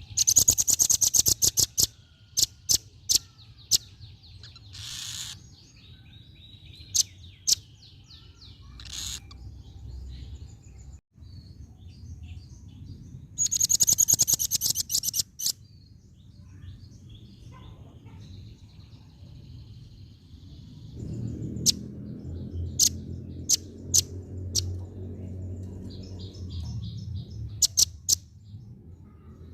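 Female velvet-fronted nuthatch calling: a fast trill of sharp, high chips lasting about two seconds at the start and again about halfway through, with single sharp notes and fainter calls in between. A low steady hum runs underneath, with a low rumble for several seconds in the latter part.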